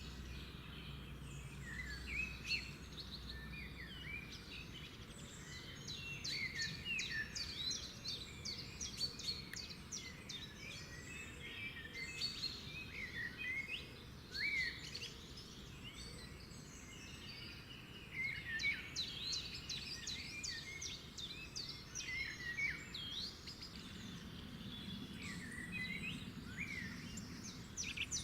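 Several birds singing together, a busy chorus of short chirps and whistles with no pause, over a faint low background rumble.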